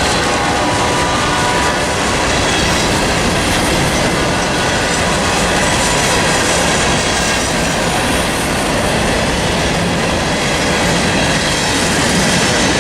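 CSX freight train rolling past at close range, its wheels clacking steadily over the rail joints.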